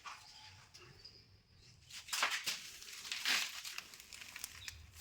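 Rustling, scraping noises, with two louder bursts about two and three seconds in.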